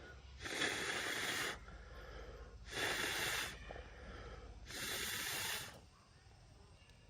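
A person blowing hard into a small wood stove three times, each blow a breathy rush of air about a second long, fanning the fire's embers back into flame.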